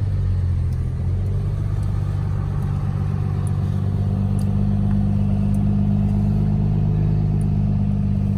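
Motor vehicle engine running steadily under way, with a low, even drone.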